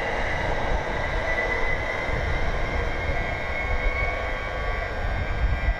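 Greater Anglia Class 755 bi-mode multiple unit pulling away along the platform, a steady low rumble with a high whine over it.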